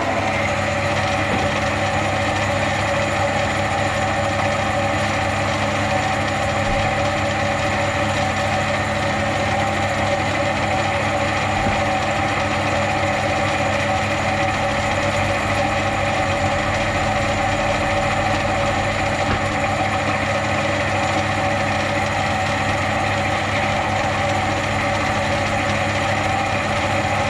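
A large engine idling steadily, with an even, unchanging hum.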